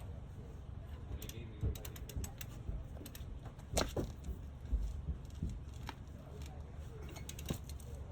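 Metal tools clicking and knocking as they are handled, with scattered sharp clinks and a dull thump about five seconds in.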